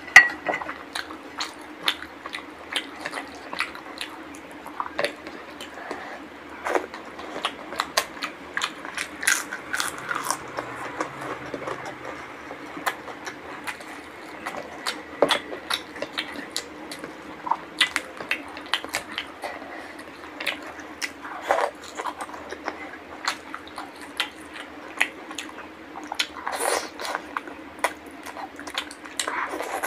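Close-up eating sounds: a person chewing and biting mouthfuls of mutton curry and rice eaten by hand, with wet mouth clicks and occasional crunches, and fingers squishing the food on the plate.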